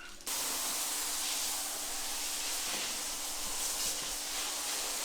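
A steady hiss of liquid spraying, starting suddenly just after the start and holding even, with a faint steady hum beneath.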